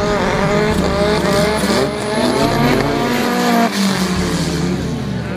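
Race car engine revving up and down repeatedly while the car is held stationary at the drag-strip start line, building revs before the launch.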